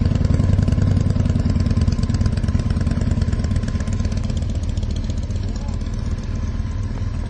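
Motorcycle engine idling close by, a steady, rapid low throb of firing pulses.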